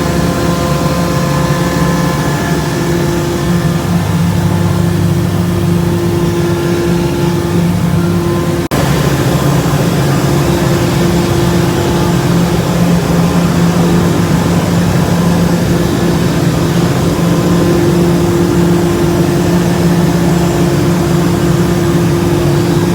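Fuel oil purifiers (centrifugal separators) running in a ship's engine room: a loud, steady machinery hum with constant tones. The noise briefly drops out and shifts about nine seconds in.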